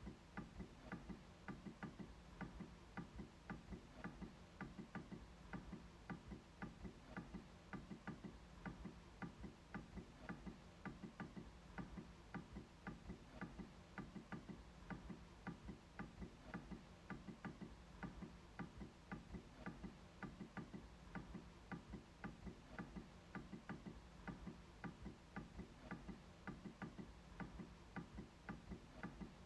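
MacBook trackpad being clicked over and over: faint, short clicks, about two to three a second, keeping on without a break.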